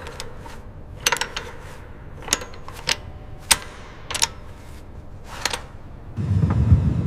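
Sharp metallic clicks of hand tools on fittings, one or two about every second, as hydraulic hose connections are tightened. About six seconds in, a louder low rumble comes in and runs briefly.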